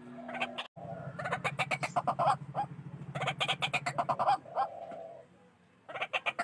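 White-breasted waterhen (ruak-ruak) calling: rapid runs of harsh, repeated notes, with a low buzzing pulse beneath them for the first few seconds. The calls pause about five seconds in and start again near the end.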